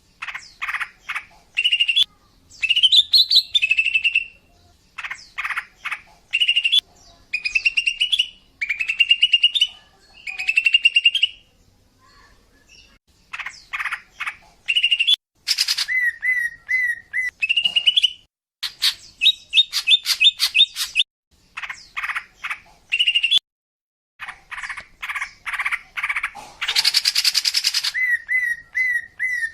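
Female greater green leafbird (cucak ijo) calling: rapid runs of short sharp chirps and brief rising warbled phrases, with a harsh rasping call near the end. This is the female's call that draws in males.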